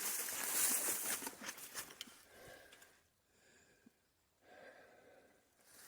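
Rustling with small crackles, as of steps through brush, for about two seconds, fading out. Then near quiet with a couple of soft breaths close to the microphone.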